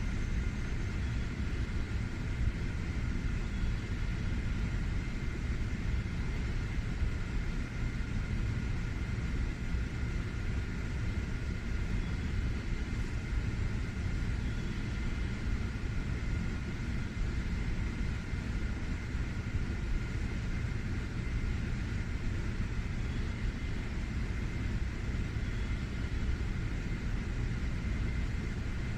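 Steady low rumble and hum of a 700 series Shinkansen standing at the platform, with two faint steady high tones running through it.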